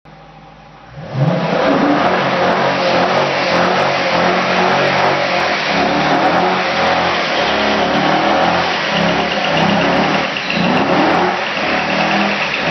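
Small-block Chevy V8 with headers and no mufflers, revving and running loud; it comes in about a second in and its pitch rises and falls.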